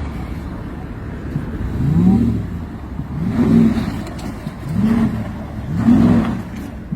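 Car engine revving up and down repeatedly, four or five rises and falls about a second and a half apart, over steady road or motor noise.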